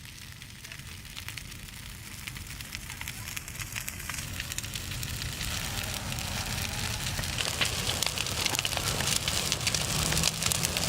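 Large bonfire of dry Christmas trees burning, with a dense crackling and popping that grows steadily louder.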